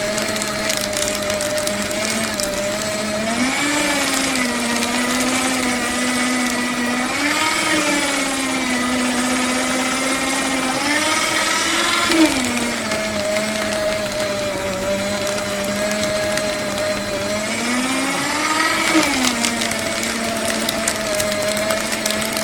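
Electric paper shredder running with a steady motor hum. Its pitch rises and falls back a few times, about every four to eight seconds.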